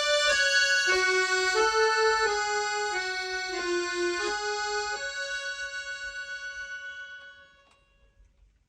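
Music on a free-reed instrument, accordion-like: a short melody of held notes, often two at once, that settles on one long note and fades out.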